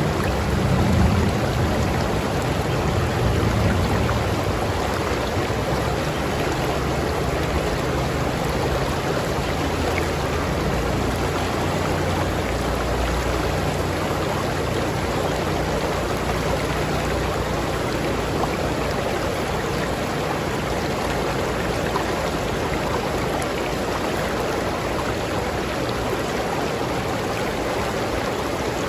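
River stream flowing with a steady rushing sound, with a deeper low rumble stronger over the first several seconds.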